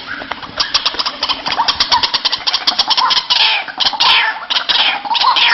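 White-breasted waterhen calling: a fast run of short, harsh repeated notes, turning into louder falling squawks in the second half.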